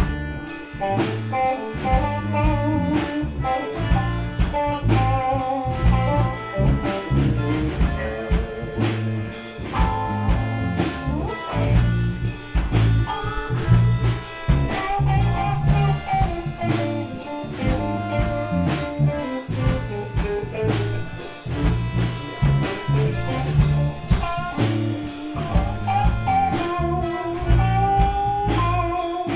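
A live gypsy rock band of guitar, accordion, bass and drum kit plays an instrumental passage. The drums keep a steady beat under a bass line and a wandering lead melody.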